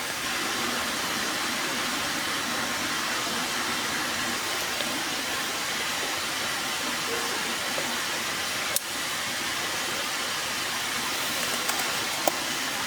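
A steady rushing hiss, with one sharp click about nine seconds in and a few faint ticks near the end.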